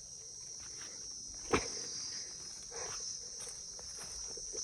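Steady high-pitched insect chorus, like crickets, under footsteps in sandals on a path, with a sharp knock about a second and a half in.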